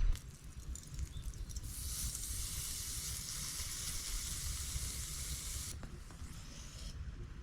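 A steady hiss that starts sharply about one and a half seconds in and cuts off about four seconds later, over a low rumble.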